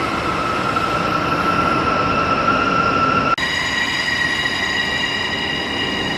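Passenger train running, a steady rumble under a high, held whine. About three seconds in the sound cuts abruptly to a higher whine.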